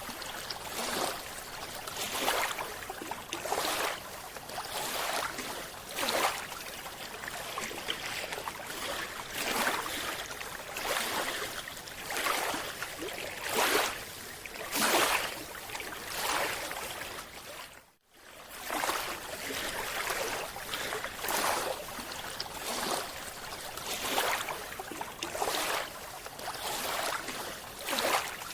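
Rushing water noise that surges in repeated bursts roughly once a second, with a brief dropout about eighteen seconds in.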